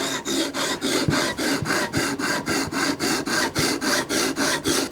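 A sharpening stone on a guided sharpening system rasps back and forth along the edge of a Microtech Combat Troodon tanto blade, in quick even strokes of about four to five a second.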